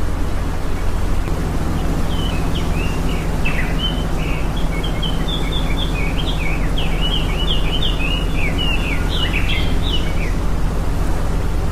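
A small bird twittering a rapid string of short, high chirps from about a second in until near the end, over steady low background noise.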